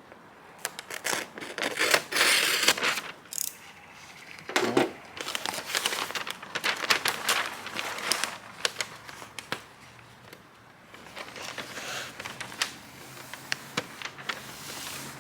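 Masking tape being pulled, torn and pressed down by hand: crinkling and tearing with scattered small clicks.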